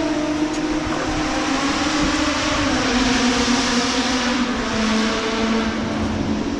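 Motor vehicle passing, its engine hum sliding down in pitch through the middle, over a steady hiss.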